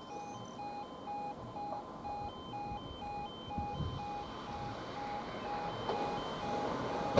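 Electronic warning alarm beeping in a steady on-off pattern, about two beeps a second, with higher alternating tones over it. A train's low rumble grows louder near the end.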